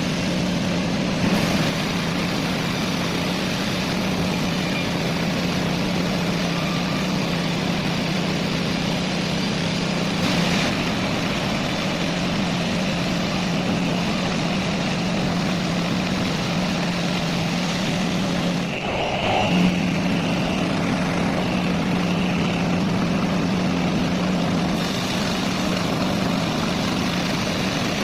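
Heavy engine running steadily with a constant low hum. About two-thirds of the way through it dips briefly and wavers in pitch, and a faint high whine sounds for a few seconds.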